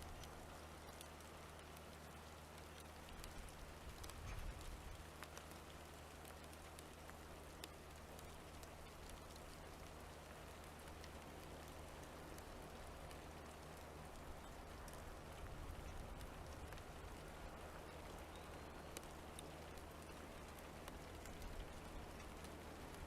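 Faint ticking of light rain, scattered small drops over a soft steady hiss and a low hum.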